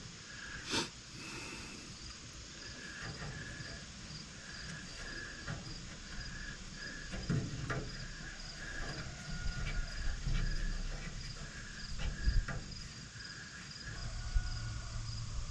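Crickets chirping steadily in even, repeating pulses, with a few scattered sharp clicks and knocks over them.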